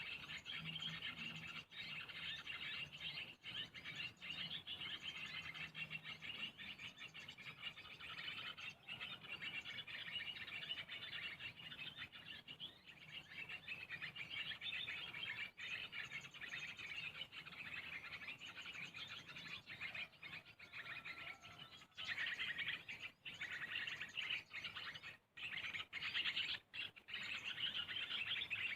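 Small birds chirping and twittering in a dense, continuous chorus, briefly cutting out a couple of times near the end.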